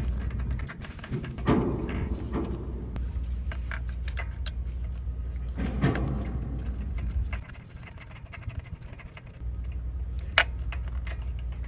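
Irregular metallic clicks and clinks of hand tools, a ratchet with a socket and extension, working a spark plug into the engine. There are two louder rattling clusters, and a steady low hum underneath that drops out twice.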